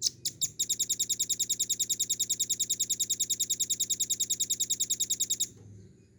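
Velvet-fronted nuthatch singing: a few separate high notes, then a long, fast trill of evenly repeated high notes, about ten a second, that stops abruptly after about five seconds.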